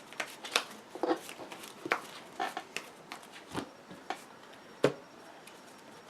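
Trading cards handled on a tabletop: irregular light taps and slides as cards are placed, flipped and moved, with one sharper tap just before five seconds in.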